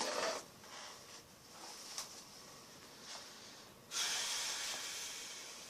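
A brief breathy rush of noise, then about four seconds in a sudden hiss that fades away slowly over the next couple of seconds.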